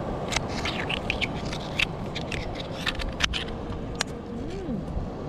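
Irregular sharp clicks and scrapes, a dozen or so, over a steady low rushing background.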